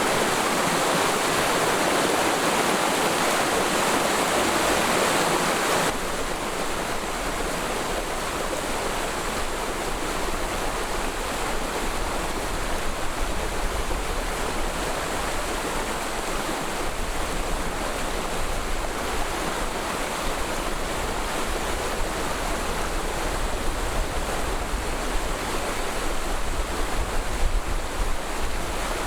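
Mountain stream in a forest valley flowing, a steady rush of water. About six seconds in it cuts abruptly to a quieter stretch of running water with a low rumble underneath.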